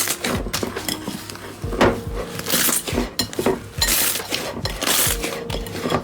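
Slime being handled and pressed, making many sharp clicking and crackling pops, over background music with faint sustained tones.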